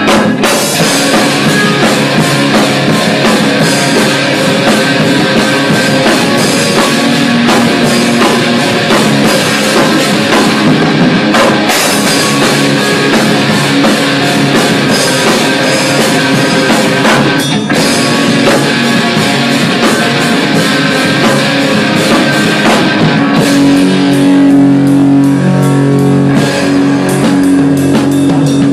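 Rock band playing at full volume: electric guitars over a driving drum kit. The whole band stops for a moment twice, about 11 and 17 seconds in. Near the end the cymbals drop back and held guitar chords come forward.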